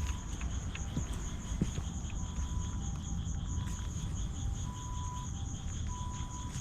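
Night insects chirping steadily: a high, rapidly pulsing trill that runs on without pause, over a low steady rumble, with a few soft ticks and a faint tone that comes and goes in short stretches.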